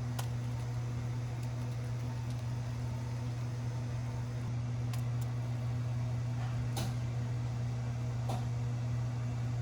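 A steady low mechanical hum, like a small motor or appliance running, with a few faint clicks.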